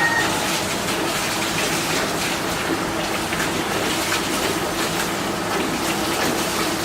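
Steady gushing of running water.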